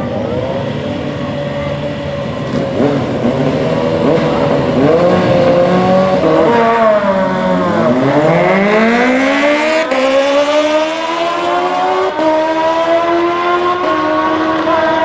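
Racing motorcycle engine revving hard. Its pitch wanders, drops to a low about eight seconds in, then climbs steadily under acceleration.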